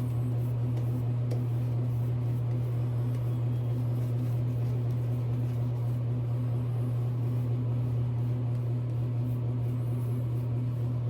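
Steady low machine hum that holds one pitch and level throughout.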